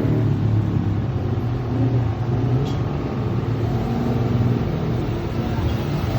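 Yamaha MX King 150's single-cylinder four-stroke engine running at a steady low speed through a Creampie CP2 RX aftermarket exhaust.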